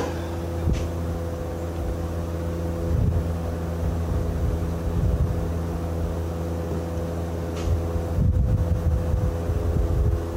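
A machine or engine running steadily with an even, low hum, broken by two brief hisses, one about a second in and one a few seconds before the end.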